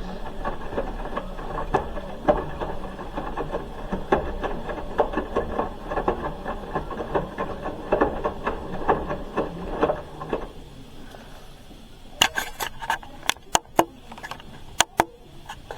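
Hoover H-wash 300 Plus washing machine mid-wash, its drum turning with a load and water, giving a run of irregular knocks and sloshing for about ten seconds. It then quietens, and several sharp clicks follow near the end.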